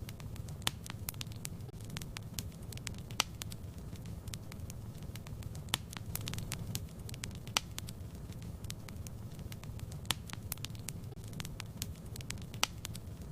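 Fire crackling in a fireplace: a steady low rumble of flame with frequent irregular sharp pops and snaps.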